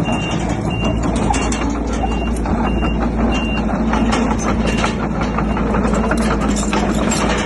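A heavy diesel construction machine running under load while its reversing alarm beeps steadily; the beeping stops about three and a half seconds in, and clanking and rattling take over.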